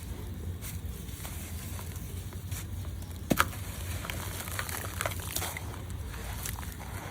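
Gritty red dirt clumps crumbled and crushed between the hands: scattered small crackles and crunches, with one louder crunch about a third of the way in, over a steady low hum.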